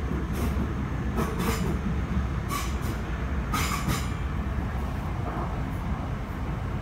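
Southeastern Class 465 electric multiple unit running along the line, heard from inside the carriage: a steady low rumble, with several short high-pitched bursts of noise from the wheels on the rails in the first four seconds or so.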